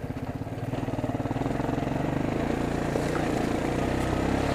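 Four-wheeler (ATV) engine running, its firing pulses steady at first, then growing louder from about a second in.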